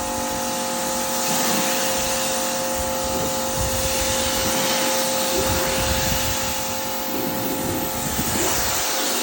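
Pressure washer running with a steady motor whine and the hiss of its water jet, rinsing the washed car off from the top down.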